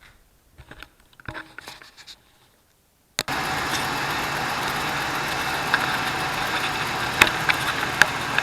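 A few faint clicks, then about three seconds in the 2004 Dodge Dakota's 4.7-litre V8 is suddenly heard running at idle, with a light ticking on top. The tick comes from a driver's-side hydraulic lifter that is not filling with oil, which the owner puts down to gunk blocking the lifter's oil orifice.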